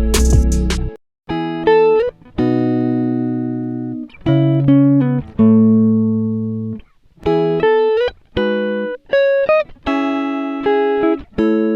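Guitar music: a slow melody of plucked notes and chords, each ringing out and fading, some with short upward slides. A denser, louder passage stops about a second in, and the phrases are separated by brief gaps.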